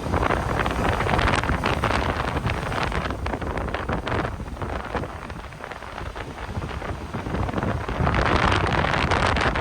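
Strong, gusty sea wind buffeting the microphone, with heavy surf from big waves beneath it. The wind eases briefly past the middle and picks up again near the end.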